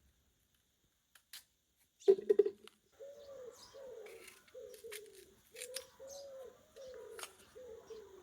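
An animal calling: a brief pulsing burst, then a run of short, low calls, each rising and falling in pitch, about one every two-thirds of a second.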